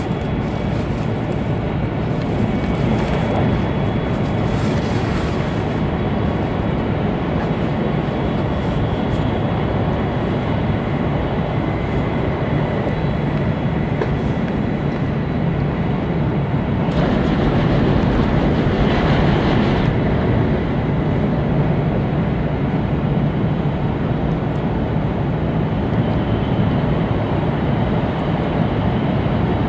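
Cabin running noise of an E2 series Tohoku Shinkansen train heard inside a passenger car: a steady rumble and hiss, with the hiss briefly louder for a few seconds past the middle.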